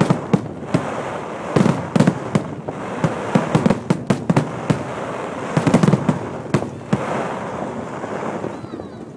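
Chinese New Year fireworks going off: many sharp bangs over a steady crackle, in dense clusters that thin out and fade near the end.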